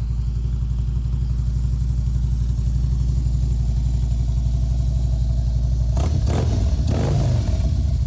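Harley-Davidson 103 CI V-twin engine of a 2016 Street Glide Special idling with a steady low pulse. A couple of brief louder bursts come about six to seven seconds in.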